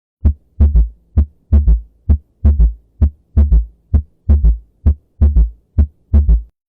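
Recorded heart sounds with an extra sound in diastole, giving three sounds per cycle in a gallop rhythm, about 65 cycles a minute. They stop shortly before the end.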